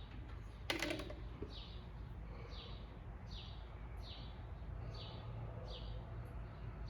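A bird calling over and over: short, high, falling chirps a little under a second apart. One sharp click about a second in, over a low steady hum.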